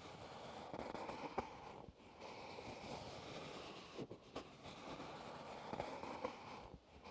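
Close-miked crinkling and rustling with small crackles, in slow strokes of about two seconds each with short breaks between.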